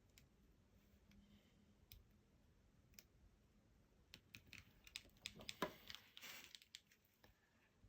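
Small clicks and taps from handling the reassembled 5th-generation iPod nano while trying to switch it on: a few faint single clicks, then a quick run of clicks with a brief scrape from about four to seven seconds in.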